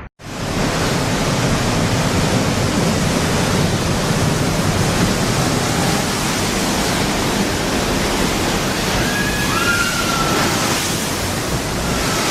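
Loud, steady rushing noise of storm surf and surging water, even and unbroken. A few faint, gliding calls come through about nine seconds in.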